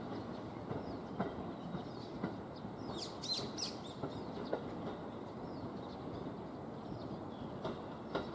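JR E233-series electric train running away over the junction's switches: a low rumble with scattered sharp clicks as the wheels cross rail joints and points. A bird chirps briefly about three seconds in.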